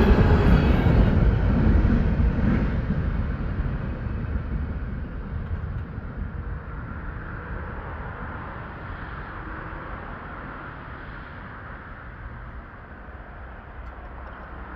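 A passing train's rumble and wheel noise on the rails dying away steadily as the train moves off.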